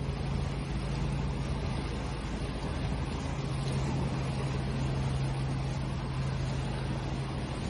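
Ocean waves washing steadily, with a steady low mechanical hum mixed in.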